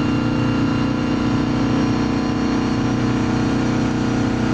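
Vehicle engine running at a steady speed, an even low drone that neither rises nor falls.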